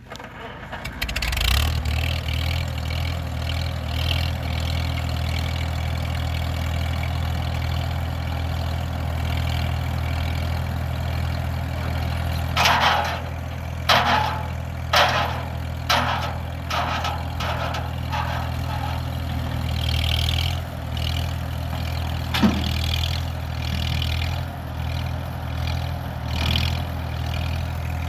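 1949 Farmall H tractor's four-cylinder gasoline engine starting up in the first couple of seconds and then running steadily. Partway through comes a run of short, sharp noises about a second apart, then one more a few seconds later.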